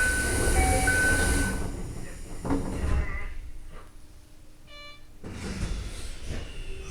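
Toei Asakusa Line 5300 series commuter train at a station: a loud air hiss from the door gear with two short beeping tones as the sliding doors close. It goes quieter, and a few seconds later the low rumble of the train starting to move builds up.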